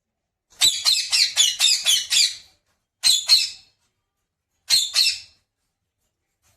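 Pet parrot squawking: a quick run of about eight harsh calls, then two short pairs of calls a second and a half apart.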